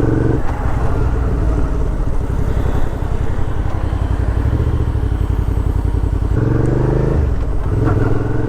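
Suzuki V-Strom 650 XT's V-twin engine pulling away and accelerating, with road and wind noise on the microphone. Near the end the engine note rises, dips briefly at a gear change, and rises again.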